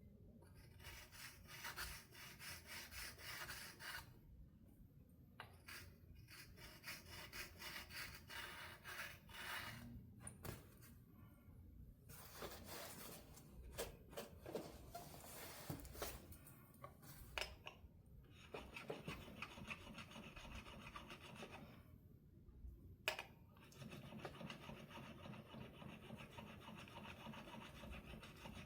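A small fret file rubbing back and forth over guitar frets in runs of quick strokes with short pauses between, dressing and smoothing the frets. There is a single sharp click about two-thirds of the way through.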